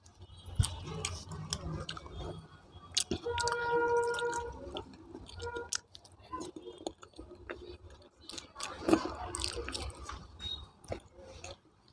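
A person chewing food close to the microphone, with wet mouth sounds and many small irregular clicks. A brief held hum, like a distant voice, comes in about three seconds in and lasts a second or so.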